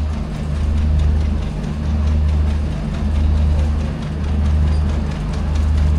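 A low engine hum that swells and eases in a slow, even beat, a little under once a second.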